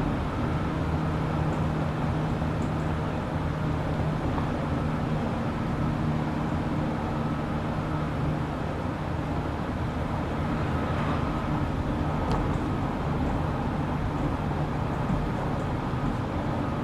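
JR Kyushu 817 series electric train running at a steady speed, heard from inside the car: continuous rail and wheel noise with steady drive tones that hold their pitch. This unit is known for an unusual running sound likened to the Keio 7000 series.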